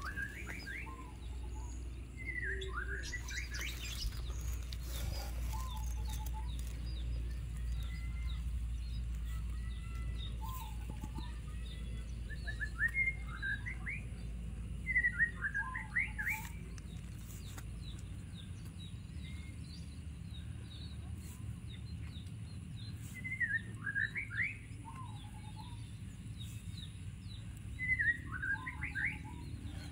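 A songbird singing the same short phrase every few seconds: quick high notes followed by a lower falling-rising ending. A low steady rumble lies beneath it and eases off about two-thirds of the way through.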